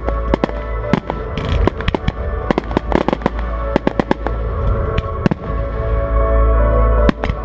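Fireworks display: a rapid string of sharp bangs from bursting shells over music. The bangs come thick for about five seconds, then thin out, with a last pair near the end.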